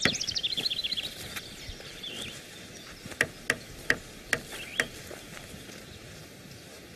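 A bird's quick trill falling in pitch, then five sharp knocks over about a second and a half, with faint birdsong behind.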